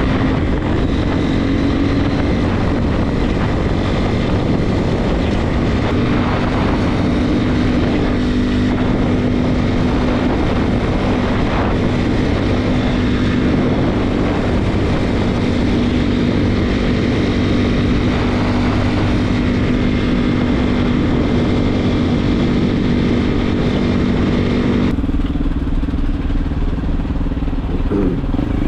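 Regulmoto TE enduro motorcycle under way at a steady engine speed, its engine note over wind and road noise. Near the end the wind noise falls away and the engine note changes as the bike slows.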